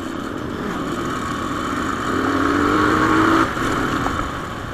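Motorcycle engine running under way, with rushing noise over it. It pulls harder and grows louder about two seconds in, then eases off abruptly about three and a half seconds in.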